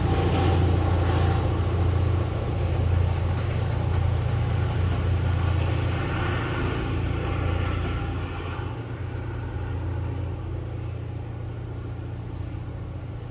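MBTA commuter rail train's diesel locomotive running with a low steady rumble that fades gradually as the train moves away.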